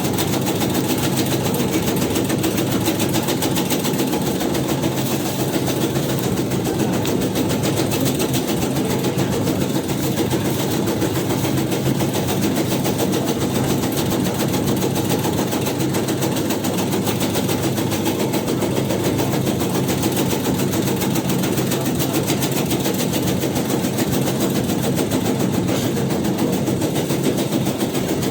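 Motorized tobacco shredding machine (mesin rajang tembakau) running steadily, a fast, even mechanical chatter that keeps on without a break.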